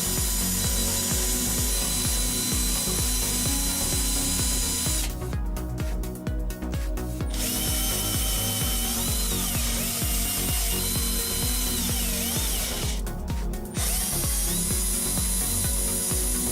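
Electric drill running steadily, spinning a twisted-wire auger inside a pipe to push cement out of a bottle hopper, with a fast mechanical rattle.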